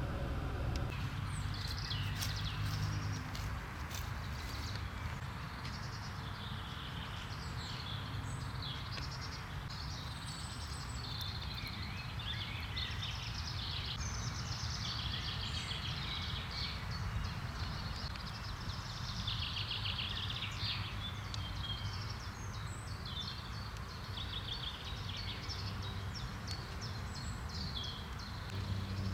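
Birds singing and chirping continuously over a steady low background rumble.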